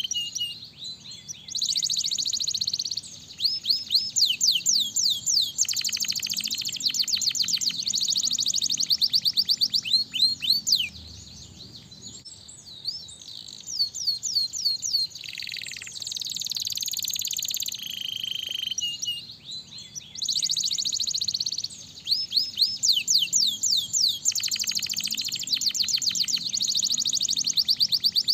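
Domestic canary singing: long phrases of rapid trills and fast sweeping whistled notes, broken by a few short pauses.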